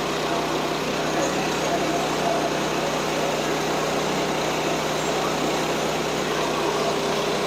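Small engine of a portable sawmill running steadily with an even, unchanging tone.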